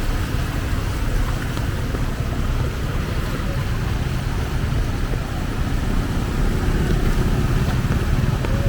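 A motor vehicle's engine running close by, a steady low rumble, over a constant hiss of heavy rain on a flooded street.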